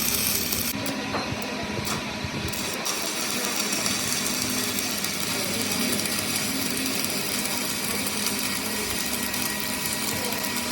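Steady mechanical running noise from workshop machinery, carrying a faint steady whine.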